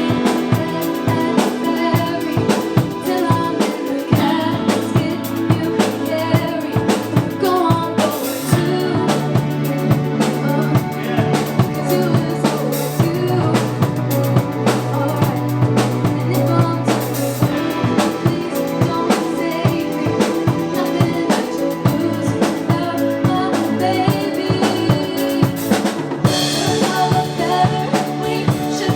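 A band playing music, with a full drum kit keeping a steady beat (snare with rimshots and bass drum to the fore) over a bass line.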